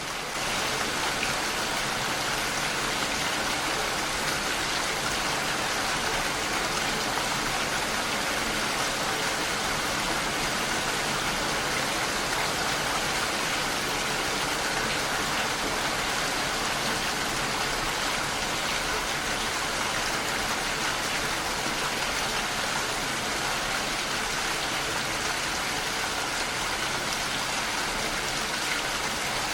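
Heavy rain falling steadily on a window, an even wash of noise with no breaks.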